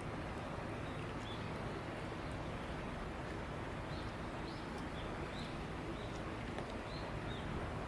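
Steady outdoor background hum, with small birds giving short high chirps, a dozen or so, from about a second in.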